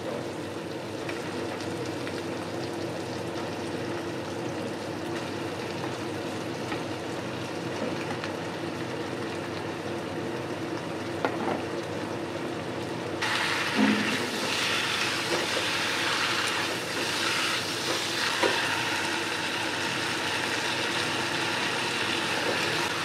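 Masala and chicken pieces frying in a black kadai on a gas stove, a steady sizzle. It grows louder and brighter about thirteen seconds in, once the raw chicken is in the pan, and a spatula scrapes and stirs near the end.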